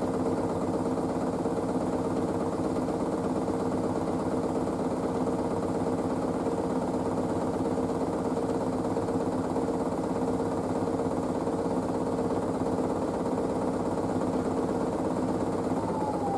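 Panasonic washing machine spinning its drum at speed on the wool cycle's 500 rpm spin, a steady motor hum and whine. Near the end the whine begins to fall in pitch as the drum starts to slow down.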